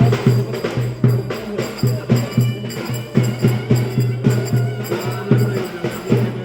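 Turkish folk dance music (oyun havası) played at a wedding, with a strong, regular drum beat, a jingling, tambourine-like rhythm and a melody line above.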